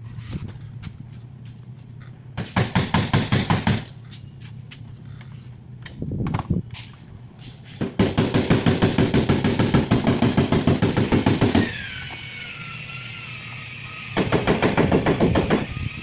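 A Nissan Maxima's engine being cranked by its starter motor in several bursts of rapid, even chugging. Between the last two tries there is a short steadier stretch with a falling whine.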